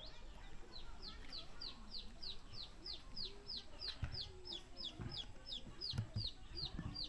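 A small bird calling a long, even series of high, quick down-slurred notes, about three a second. Faint low thuds come roughly once a second in the second half.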